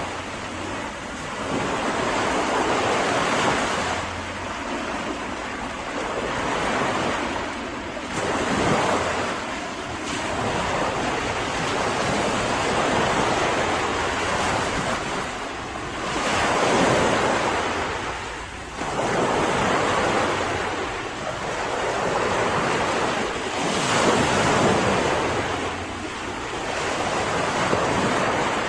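Mediterranean sea waves breaking and washing up on a beach, in surges that swell and fade every few seconds.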